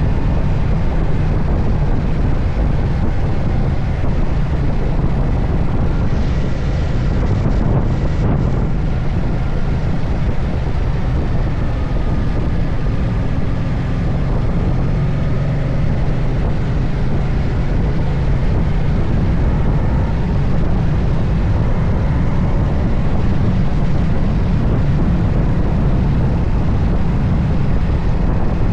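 Moto Guzzi Stelvio's V-twin engine running steadily at road speed, mixed with wind rushing over the microphone.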